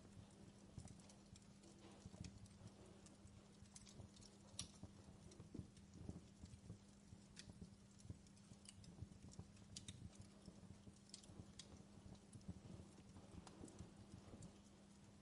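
Faint fireplace crackling: scattered small pops and clicks at an irregular pace, over a steady low hum.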